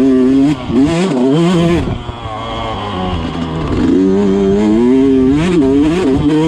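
Yamaha YZ125 two-stroke dirt bike engine revving up and down under riding, its pitch climbing and falling with throttle and gear changes; it eases off about two seconds in and picks up again past the middle.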